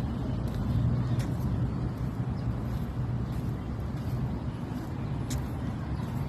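Motor vehicle driving on a road: a steady low engine and road rumble, with a few brief faint clicks.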